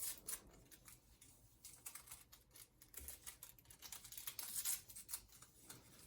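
Faint, scattered light clicks and rustles of small kitchen items being handled, most likely sugar being added to the coffee.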